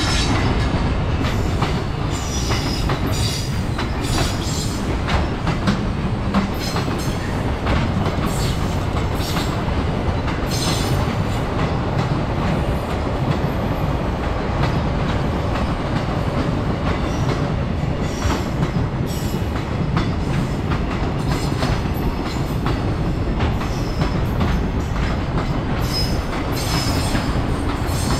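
Long container freight train of Koki flat wagons, hauled by a JR Freight EF210 electric locomotive, rolling past at close range: a steady rolling noise with constant clickety-clack of wheels over rail joints and a few brief high wheel squeals.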